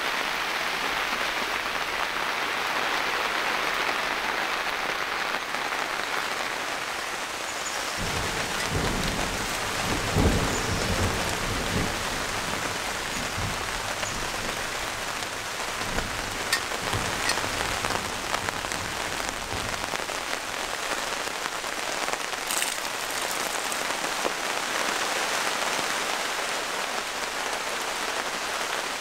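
Steady heavy rain, with a long low rumble of thunder rolling through the middle, from about eight seconds in to about twenty.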